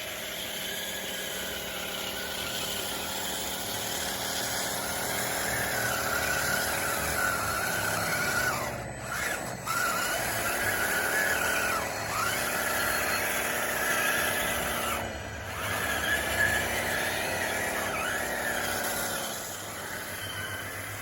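DXR2 RC bulldozer's motors whining steadily, the pitch sagging and recovering four times as the machine comes under load.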